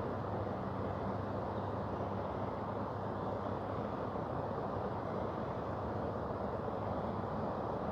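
Steady rushing of a mountain river's flowing water, an even noise that neither rises nor falls.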